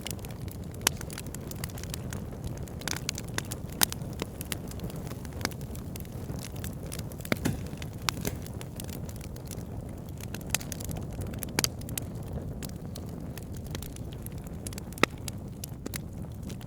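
Wood fire burning with a steady low rumble, logs crackling and popping in irregular sharp snaps, a few louder pops standing out.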